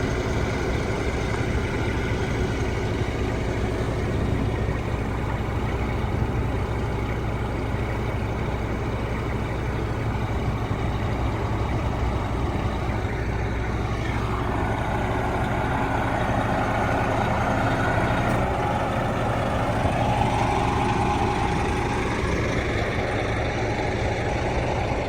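Heavy diesel truck engine idling steadily. About halfway through, a louder rushing noise swells up and fades away again a few seconds before the end.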